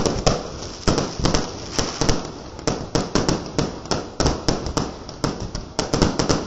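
Aerial fireworks bursting overhead in a rapid, irregular string of sharp bangs, several a second.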